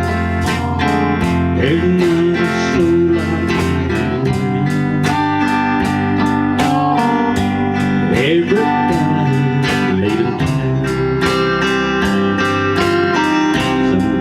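A blues-rock band playing an instrumental break: a lead guitar with bending notes over a steady drum beat and a bass line.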